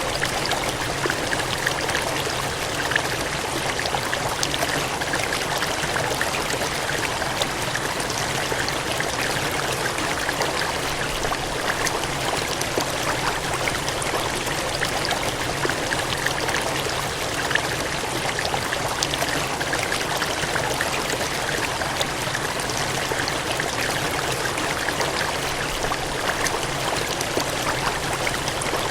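Water gushing and cascading in a steady, unbroken rush with a fine splashing texture.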